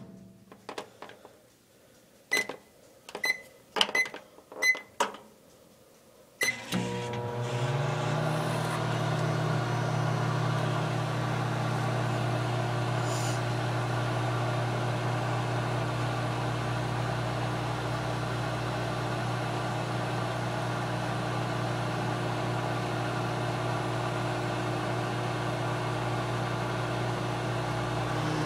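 Microwave oven keypad beeping five times as the cooking time is entered, then the oven starts about six seconds in and runs with a steady hum.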